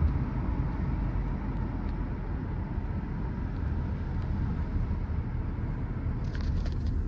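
Car driving at steady speed: a continuous low rumble of road and engine noise. A few light clicks or rattles come in near the end.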